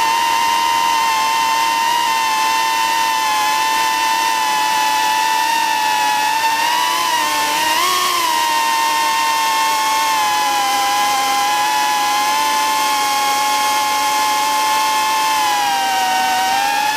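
Small quadcopter drone's propellers whining steadily in flight, the pitch wavering a little as the motors speed up and slow down, with a couple of brief rises in the middle and near the end.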